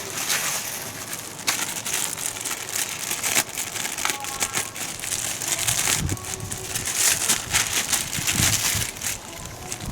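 Rustling, crinkling handling noise with many small clicks, and a couple of low thumps about six and eight and a half seconds in.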